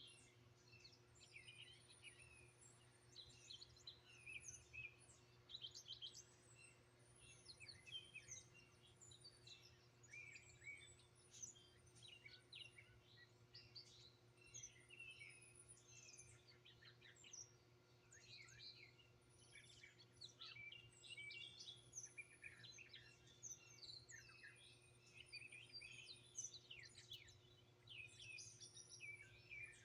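Several songbirds chirping and singing over one another in quick, overlapping high chirps and trills, faint and continuous.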